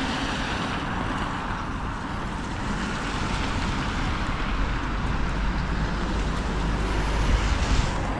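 Wet street ambience: road traffic hiss mixed with wind buffeting the microphone, the low rumble strengthening in the second half and peaking near the end.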